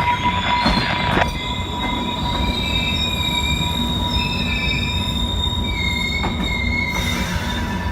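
Train rolling past with its steel wheels squealing on the rails: several steady high-pitched tones that shift slightly, over a constant low rumble, with a few clicks in the first second.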